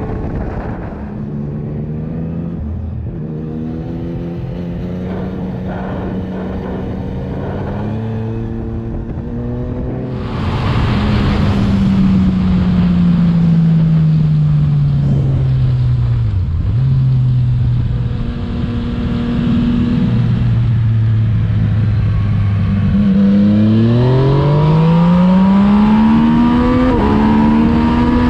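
Yamaha MT-09 (FZ-09) three-cylinder engine through an Akrapovic exhaust, under way: the engine note steps between steady pitches through the first ten seconds, then gets louder, winds down in pitch as the bike slows, and revs up hard with a steeply rising pitch about 23 seconds in and again near the end.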